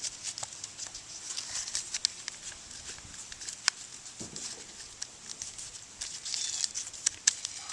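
A square of paper rustling and crinkling with scattered small clicks as its flaps are folded and creased by hand.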